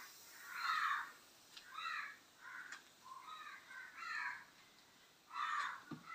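A bird calling over and over, about six short calls roughly a second apart, with a faint knock near the end.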